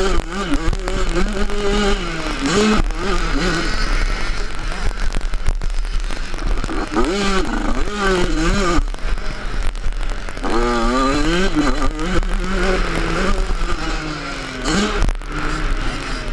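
Yamaha 85cc two-stroke motocross bike engine revving hard. The pitch climbs and drops back several times as the rider works through the gears and the throttle.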